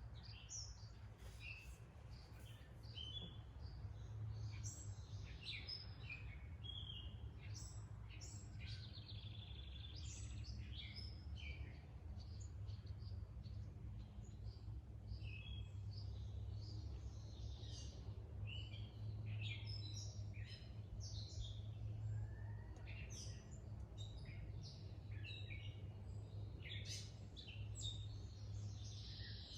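Small birds chirping and calling outdoors, many short high notes overlapping throughout, over a steady low rumble.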